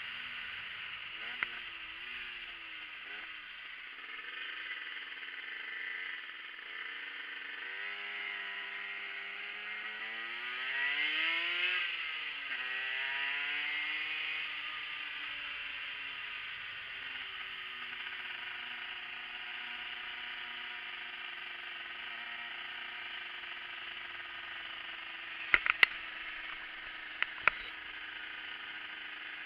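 Yamaha motorcycle's engine while riding, over a steady hiss of wind and road noise; about eight seconds in it revs up under acceleration, drops back at a shift, rises briefly again, then settles to a steady cruise. Near the end come a few sharp clicks or knocks, the loudest sounds here.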